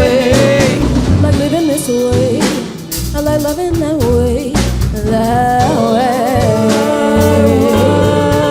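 Live pop/R&B band playing, with drums, bass and keys under wavering sung vocal lines that slide between notes; the band briefly drops back about three seconds in.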